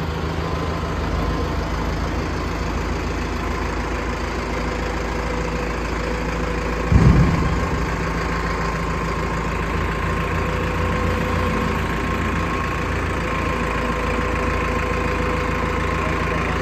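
Tractor's diesel engine idling steadily, with one brief loud thump about seven seconds in.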